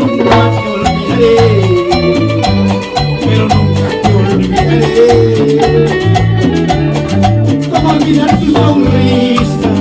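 Live Latin dance band playing an instrumental passage between sung lines: a steady bass line under a regular percussion beat, with a melodic lead on top.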